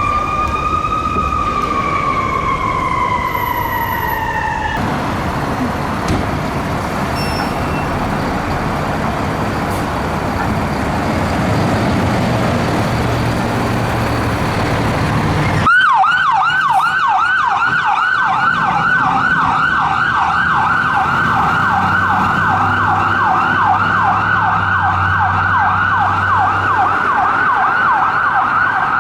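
An ambulance's electronic siren on a slow wail, rising and falling, cuts off about five seconds in. Road and diesel engine noise from a fire engine follows. About sixteen seconds in, the fire engine's electronic siren starts suddenly in a fast yelp, about three cycles a second, and keeps going.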